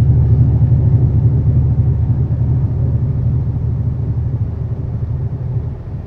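Semi truck's diesel engine and road rumble heard inside the cab: a steady low drone that gradually eases off over the last few seconds.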